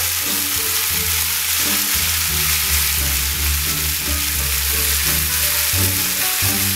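Shrimp sizzling in hot olive oil in a skillet while a spatula stirs them, a steady frying hiss. Background music with a deep bass line plays under it.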